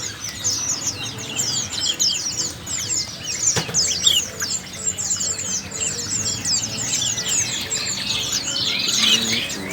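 Many caged small songbirds chirping at once in a dense, continuous chatter of short, quick notes, with one sharp click about three and a half seconds in.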